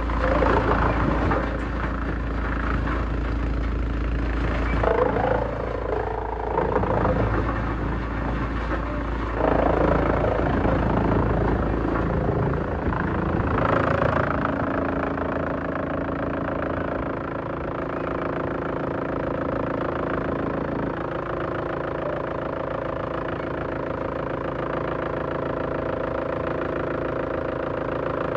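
Large industrial wood shredder running under load, with a deep rumble and irregular cracking as wood is torn apart. After about twelve seconds it settles into a steadier, even machine hum.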